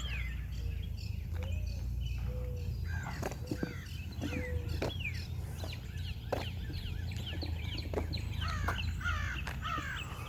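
Many songbirds chirping and singing together, with a dove's low cooing notes in the first half, over a steady low rumble.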